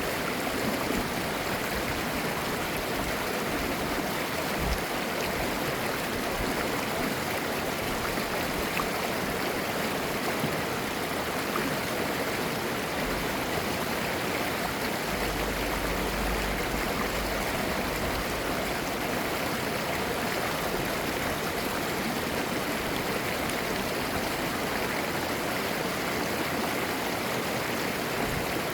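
A mountain stream flowing over rocks: a steady rush of running water with babbling and gurgling.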